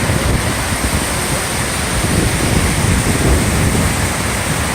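Steady rush of water from the storm-swollen river pouring over the dam, mixed with a heavy downpour, with gusts of wind on the microphone.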